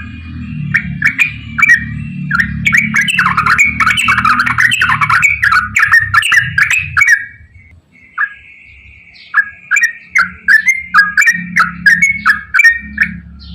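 Yellow-vented bulbul (trucukan) singing long, fast runs of bubbling chattering notes, breaking off briefly about seven seconds in before starting another run of quick repeated phrases. A low steady hum runs underneath.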